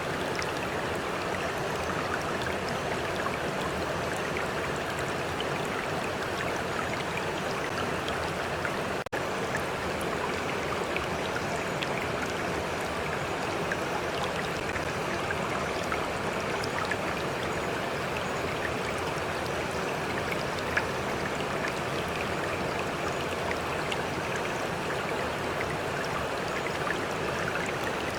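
A stream running steadily, a continuous babbling rush of water with small splashes and drips scattered through it. The sound drops out for an instant about nine seconds in.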